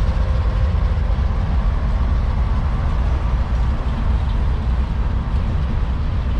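Freight train rolling past: a steady, loud low rumble of rail cars on the track.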